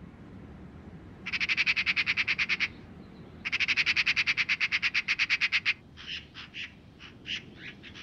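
A bird giving a harsh, rapid rattling chatter of about ten notes a second in two long runs, followed by a few scattered single harsh calls near the end.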